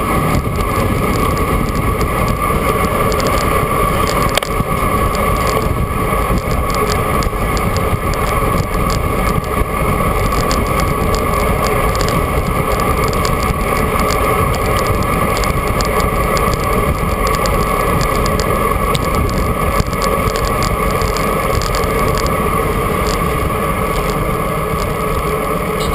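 Steady rush of wind and rolling noise from a bicycle moving at speed, with a constant hum running underneath.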